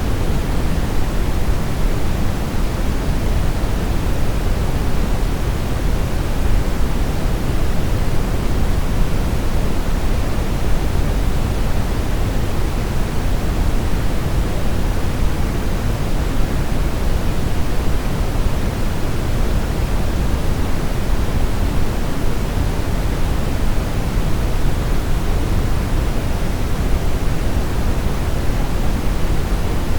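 Brown noise: a steady, deep rushing hiss, strongest in the lows, unchanging throughout.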